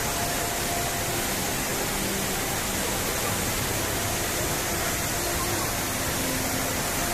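Steady rushing hiss of water jets spraying in a fountain show, with faint steady musical tones underneath.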